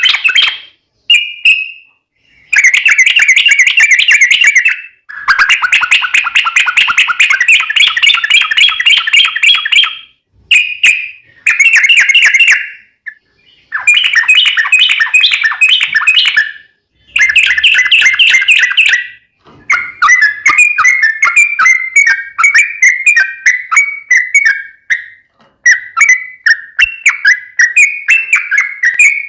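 Trucukan (yellow-vented bulbul) singing long, rapid bubbling phrases of quickly repeated notes, each lasting a few seconds, with short pauses between them. In the last third the song turns into a run of quicker, choppy chattering notes.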